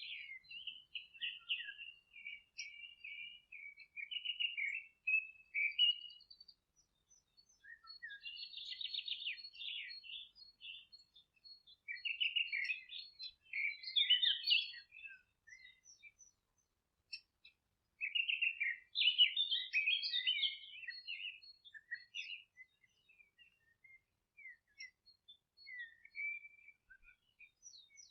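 Songbirds singing: bouts of quick twittering and trilled phrases lasting a few seconds each, with short pauses between them.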